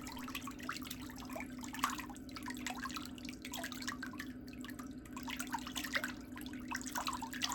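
Faint scattered small clicks and taps with light dripping, liquid sounds over a steady low hum.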